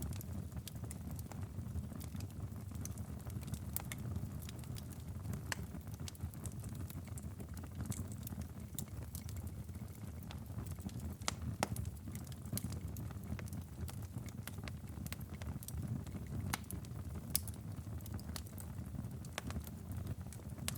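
Wood fire in a fireplace burning with a steady low rumble and scattered sharp crackles and pops.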